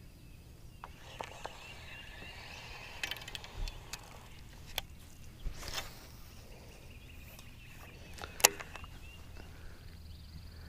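Quiet ambience aboard a fishing boat: a faint steady low hum under scattered sharp clicks and knocks, one louder crack about eight and a half seconds in, with faint high chirping in two stretches.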